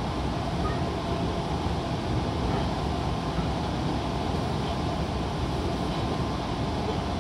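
Steady running noise of an Odakyu 1000 series electric train at speed, heard from inside the passenger car: wheels on rail and the car body, even and unbroken.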